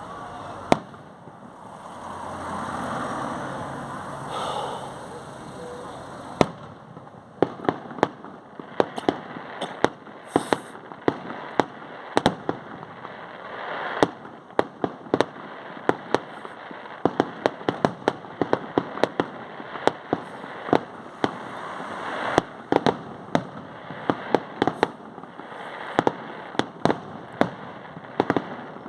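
Bonfire Night fireworks: a rushing noise swells and fades over the first few seconds, then comes a dense, irregular run of sharp bangs and cracks, several a second at times.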